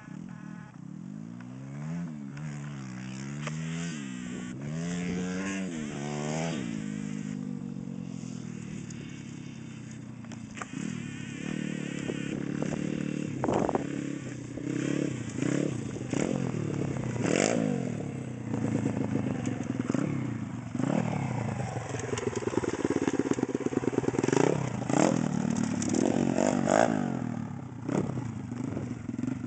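Stomp 140cc pit bike's single-cylinder four-stroke engine running and being revved up and down again and again, with quick sharp blips in the second half. It still isn't running right.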